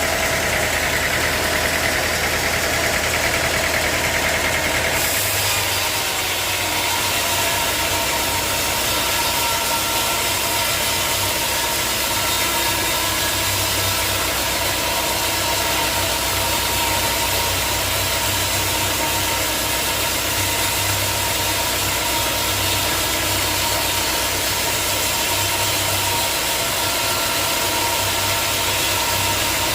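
Sawmill machinery running with a steady engine hum; the sound shifts abruptly about five seconds in, then runs on evenly.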